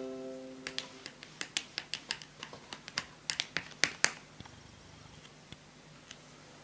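A quick irregular run of sharp clicks and taps from hands handling small laptop parts, about fifteen in three and a half seconds, stopping about four seconds in. The tail of an electronic chime fades out in the first second.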